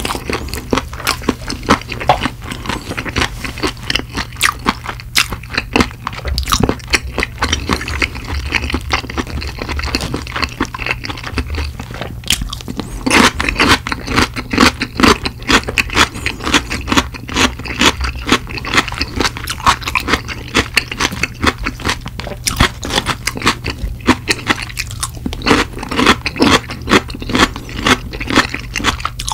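Close-miked chewing of crispy fried chicken: a continuous run of crunches and chewing sounds.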